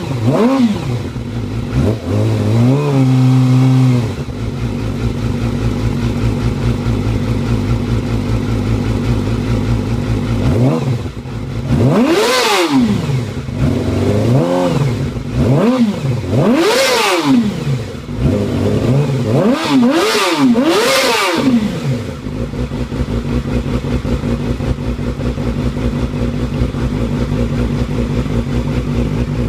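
2006 Yamaha R6's inline-four engine through a Toce aftermarket exhaust, idling and being revved. A short held rev comes near the start, then a run of about five quick revs, each rising and falling, through the middle, before it settles back to a steady idle.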